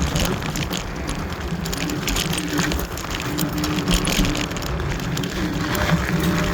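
Kaabo Wolf Warrior electric scooter riding along: a steady electric hub-motor whine that comes and goes over rough wind and tyre noise.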